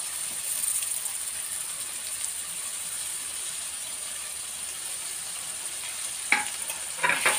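Onions, green chillies and curry leaves frying in hot oil in a steel pot, a steady sizzle, as chopped tomato is tipped in. A couple of short knocks near the end.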